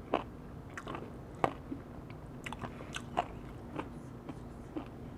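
Chewing and biting into wood-fired roast chicken, heard close: irregular sharp, crunchy clicks, about two or three a second.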